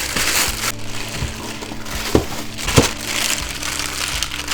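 Plastic packaging crinkling and rustling as model-plane parts are unwrapped by hand, with two knocks about halfway through. Background music plays underneath.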